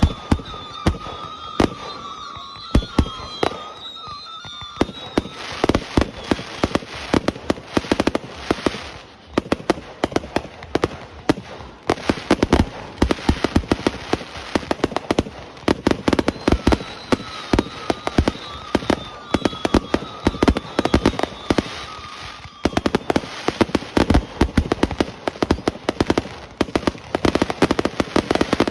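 Fireworks display: rapid volleys of sharp bangs and crackling, thickening about five seconds in and again near the end. A steady high whistle sounds over the first few seconds and again in the middle.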